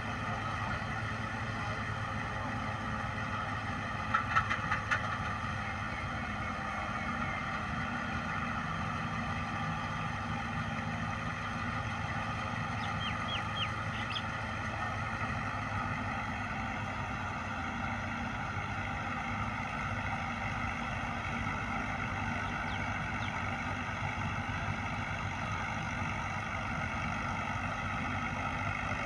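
Tractor engine running at a steady speed, with a short burst of clicks about four seconds in.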